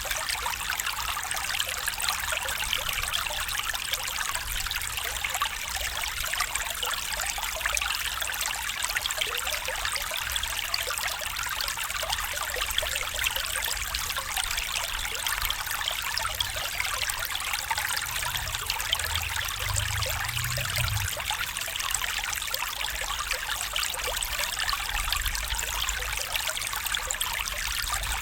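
Small stream trickling and babbling over stones, a steady splashing flow with a bright, fine texture. A faint low rumble comes in briefly about two-thirds of the way through.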